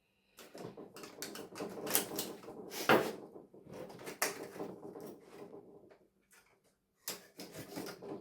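Irregular rattling and scraping with a few sharp clicks, the handling of a dismantled television's circuit boards and parts on a work surface. It stops briefly about six seconds in, then starts again.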